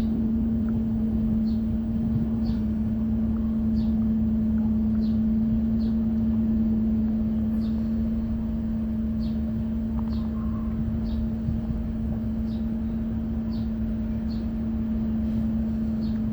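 Electric trolling motor on a kayak running steadily, a constant hum over a low rumble, with faint ticks about once a second.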